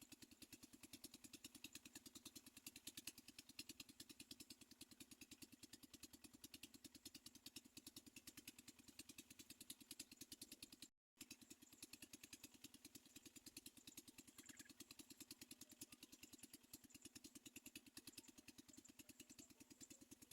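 Near silence: a faint, rapid, even pulsing drone, broken by a moment of dead silence about halfway through.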